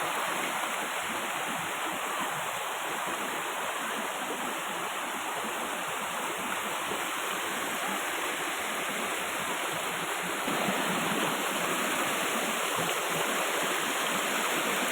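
Waterfall rushing: a steady noise of falling water, a little louder from about ten and a half seconds in.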